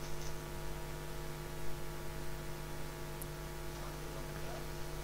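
Electric arc welding machine humming steadily at mains frequency, with several overtones over a faint hiss.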